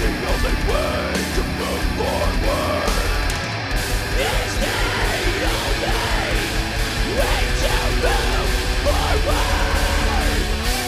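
Heavy rock music with a steady, fast drum beat under dense, distorted instruments.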